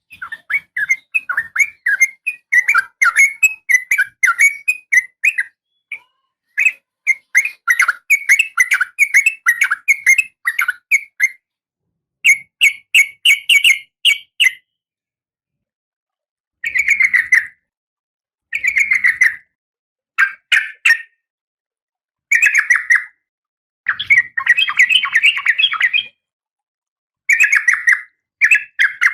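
Female oriental magpie-robin calling in rapid runs of short chirps. The runs come as long strings for the first half, then as bursts of about a second each, separated by silent gaps.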